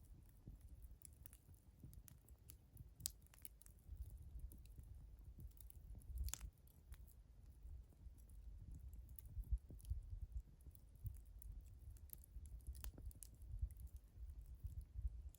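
Wood fire burning, with faint scattered crackles and pops over a low, uneven rumble.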